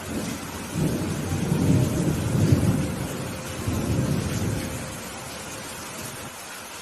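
A roll of thunder over steady rainfall. The rumble builds about a second in, peaks near the middle and dies away after about five seconds.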